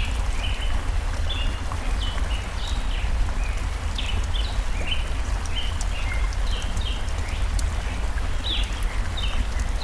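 Forest stream rushing steadily with a low rumble, under many short, high bird chirps coming several times a second, and light crackling clicks from a campfire.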